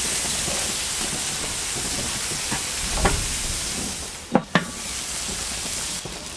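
Bacon and sausages sizzling on a non-stick grill mat on a gas barbecue, a steady hiss. A knock sounds about three seconds in, and two sharp clicks about a second and a half later.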